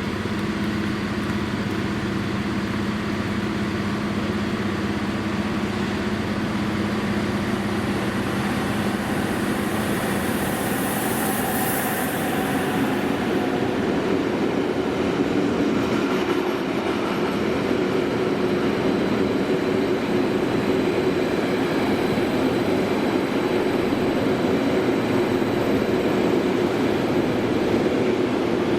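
A train rolling past on the line: a continuous rumble of wheels on rail that grows a little louder about halfway through, with a faint high-pitched wheel squeal over it.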